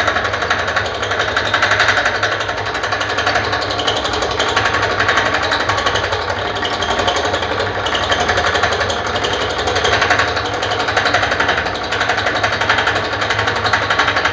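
Wheel rim repair machine running with a steady, rapid mechanical rattle.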